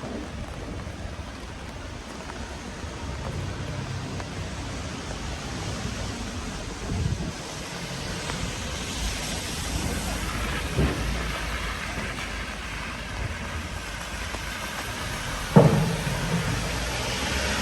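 Steady rain falling on a street, with the hiss of a vehicle on the wet road growing louder through the second half. A few dull knocks cut through, the loudest about three-quarters of the way in.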